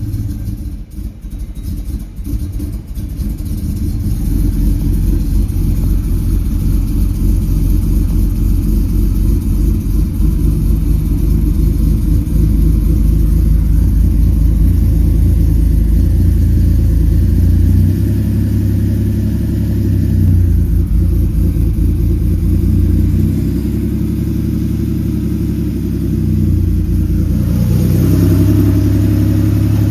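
1977 Porsche 930 Turbo's air-cooled flat-six running just after a cold start, uneven for the first few seconds and then settling into a steady idle.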